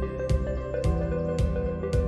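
Soft instrumental background music with a steady beat, just under two beats a second.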